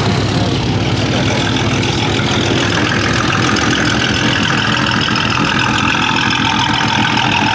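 An engine idling with a steady, deep rumble.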